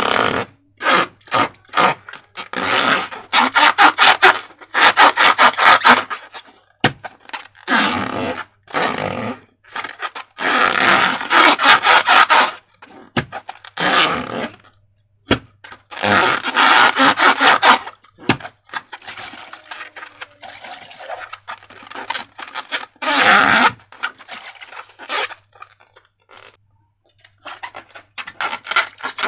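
Slime and rubber balloons being squeezed and handled: bursts of sticky crackling and scraping, each about one to two seconds long, with short pauses between.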